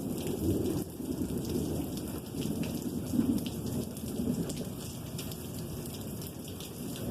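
Rolling thunder: a continuous low rumble that swells and eases several times without stopping, over steady rain with drops ticking.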